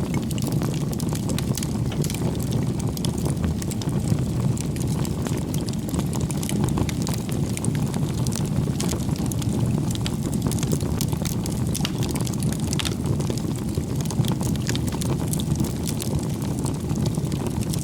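Wood campfire burning: a steady low rumble of flame with frequent small crackles and pops from the burning firewood.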